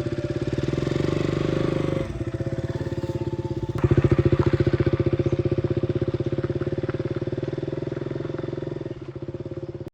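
Motorcycle engine running with an even, rapid exhaust beat. It drops back about two seconds in, comes up sharply near four seconds, then slowly eases off.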